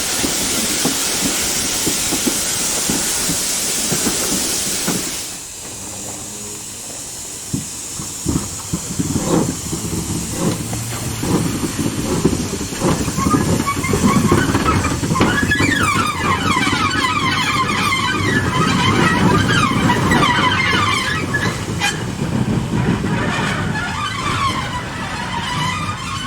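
Steam locomotive hissing loudly for about five seconds until the steam cuts off suddenly. A train then rumbles with scattered knocks, and a wavering high squeal rises over the rumble about halfway through.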